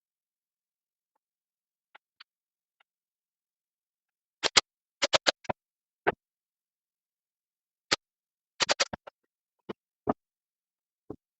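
Pin nailer firing headless pins into glued plywood: sharp clicks, about fifteen in all, several in quick runs of three to five shots.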